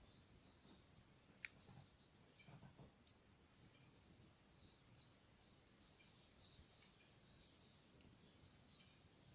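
Near silence with a faint wood campfire crackling: a few sharp isolated pops, the loudest about one and a half seconds in, over a soft hiss.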